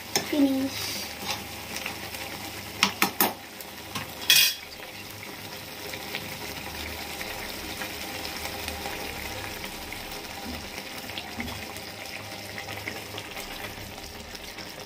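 Cooked tomato curry sizzling steadily in a kadai while a spoon stirs it, with a few sharp knocks of the spoon against the pan about three seconds in and a louder one near four and a half seconds.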